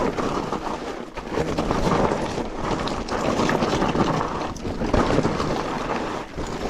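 Mountain bike descending a steep dirt trail: tyres rolling and scrubbing over the ground with a run of knocks and rattles from the bike, and wind buffeting the microphone.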